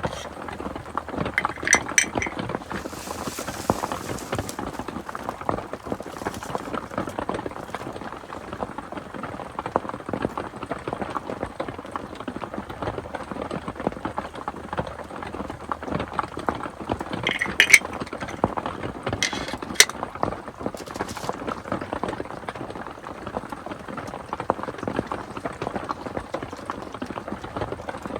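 Steady rain pattering, with a few light clinks about two seconds in and again twice near eighteen to twenty seconds, and a brief hiss a few seconds in.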